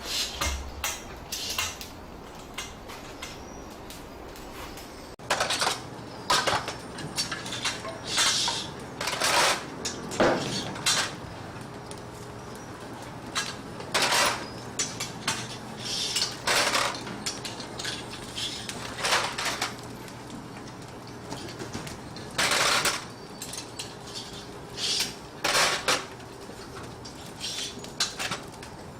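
Metal kitchenware (pans, trays and utensils) clattering and clinking in irregular knocks, some with a short ring, over a steady low hum.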